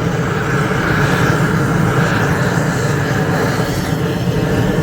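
Gas roofing torch burning steadily with a loud, even rushing noise as it heats isogam bitumen roofing membrane.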